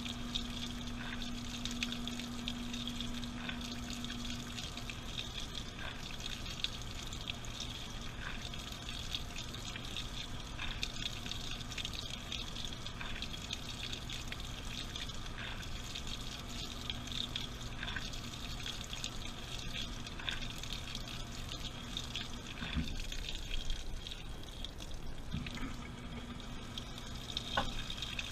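Water running and splashing inside a washing machine drum during a wash cycle, with a steady low machine hum underneath and scattered small clicks. A higher hum fades out a few seconds in and comes back near the end.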